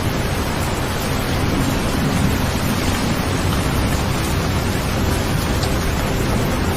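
Steady rain sound: an even, unbroken hiss with a low rumble underneath.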